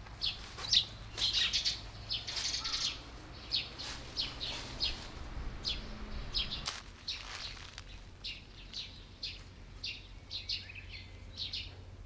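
Small birds chirping in the open: many short, high chirps, a couple a second.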